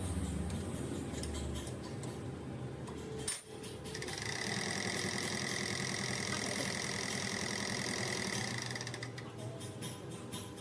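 Diesel fuel injection pump running on a calibration test bench, spun by the bench's electric motor, with a fast, even mechanical clatter as its plungers fire. A sharp knock comes about three seconds in, and a steady high whine joins from about four seconds to nine seconds in.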